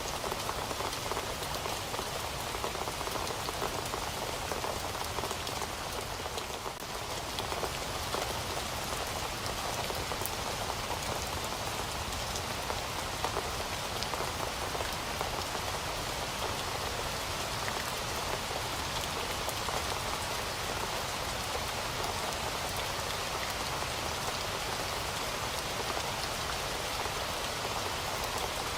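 Heavy rain falling steadily, a dense even hiss of drops on a surface, with a brief dip in level about seven seconds in.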